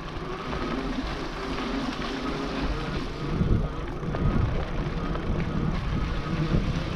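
NCM Aspen electric bike ridden on throttle, giving a steady rolling rumble of tyres and wind, with a few soft bumps about halfway through.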